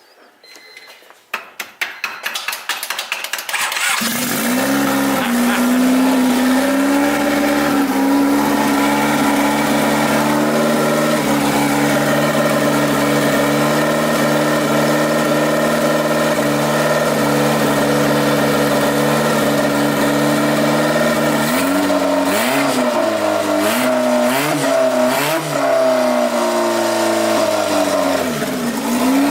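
Honda Civic engine cranked over: a few seconds of irregular clattering, then it catches at about four seconds and settles into a steady idle. Near the end it is revved in several quick blips.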